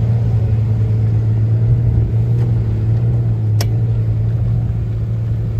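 Jeep Wrangler JK's V6 engine running steadily at low revs with an even low hum, and a single sharp click a little past halfway.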